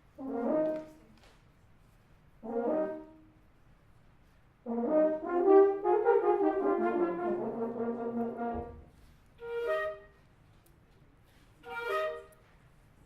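Wind band with French horns and other brass to the fore playing short separate chords with rests between, a longer phrase of about four seconds in the middle, then two more short chords.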